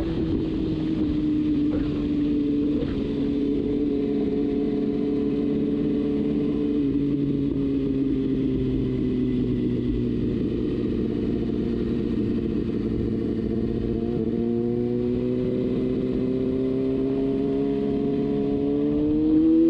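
Kawasaki Ninja ZX-6R inline-four motorcycle engine running at steady highway speed. The note sags slightly through the first half, holds, then climbs in the last few seconds as the bike accelerates.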